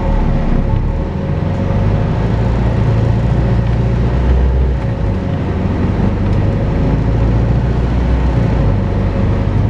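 Volvo B5LH hybrid double-decker bus's four-cylinder diesel running under way: a steady low drone that swells and eases, with a constant whine on top. This is the vacuum-cleaner-like 'hoovering' sound these buses are known for.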